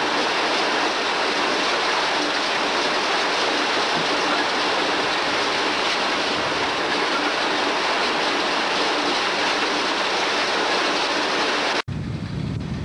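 Potato harvester running, a steady rushing rattle of soil and potatoes moving over its conveyors. It cuts off abruptly about a second before the end, giving way to a lower rumble.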